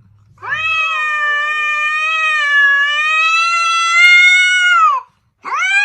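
A cat giving one long, drawn-out meow of about four and a half seconds, fairly level in pitch and dropping at the end. A short meow rising in pitch follows near the end.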